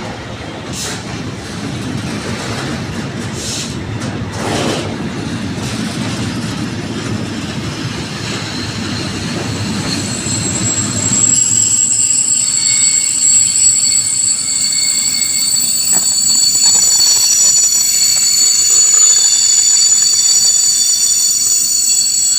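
Wagons of a Class 66-hauled intermodal freight train rolling past with a low rumble. About halfway through, steady high-pitched wheel squeal of several tones sets in and stays, louder than the rumble.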